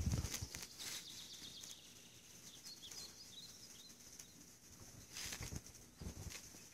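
Faint outdoor yard ambience with a few small bird chirps about halfway through, and soft bumps at the start and near the end.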